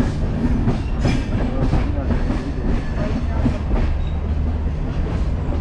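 Steady rumble inside a moving passenger train coach, with wheels clacking over rail joints every so often.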